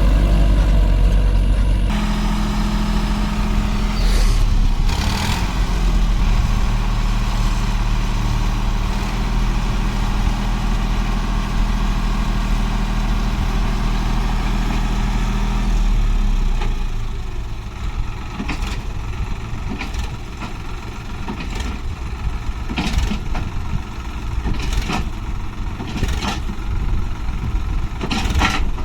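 Heavy diesel engine of a tractor or backhoe loader running steadily, dropping off about sixteen seconds in, followed by a rougher, quieter engine sound with scattered knocks.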